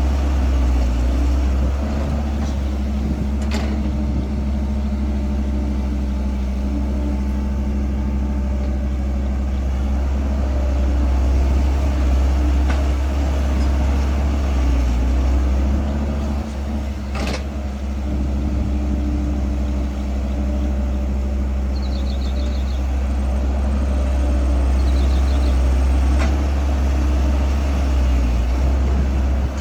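Caterpillar 312 excavator's diesel engine running steadily while working, its pitch swelling slightly now and then, with two sharp knocks, one a few seconds in and one about halfway.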